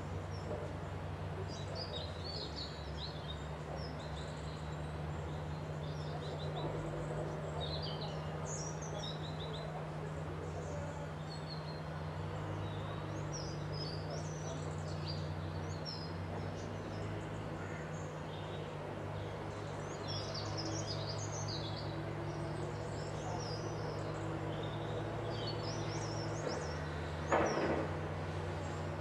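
Several small songbirds chirping and warbling on and off, over a steady low mechanical hum. A brief louder noise cuts in once near the end.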